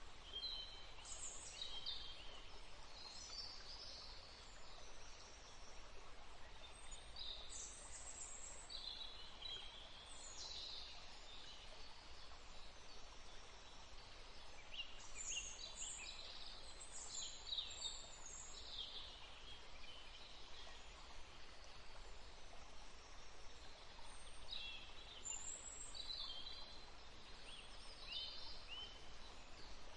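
Birds calling in four short clusters of high, quick, pitch-bending calls a few seconds apart, over a steady low background hiss of outdoor ambience.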